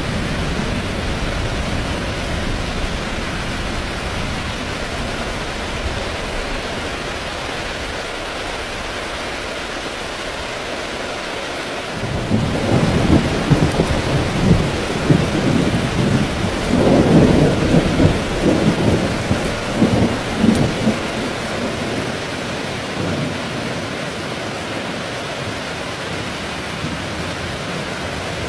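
Heavy rain falling steadily, with a roll of thunder that breaks in about twelve seconds in, rumbles for several seconds, and fades back into the rain.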